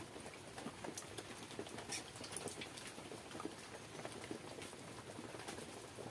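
Wet chewing and lip-smacking of a mouthful of pakhala, rice soaked in water, eaten by hand, with the squelch of fingers in the watery rice: a steady stream of small irregular clicks.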